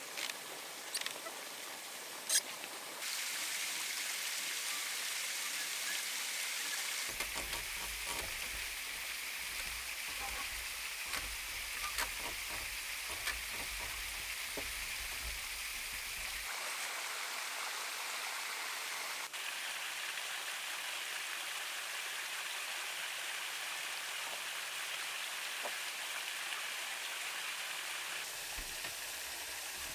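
Steady rushing of running water, with scattered light knocks and taps.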